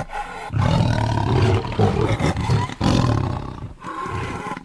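Leopard roaring: long, rough, low calls, with a short break about three seconds in.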